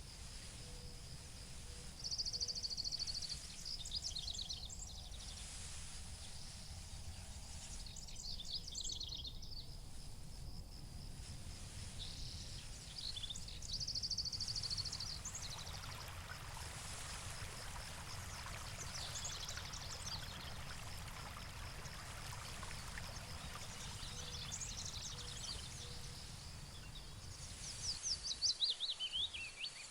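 Meadow ambience: songbirds singing short high trilling phrases every few seconds, the loudest a falling trill near the end, over a steady high insect buzz and a low rumble of wind.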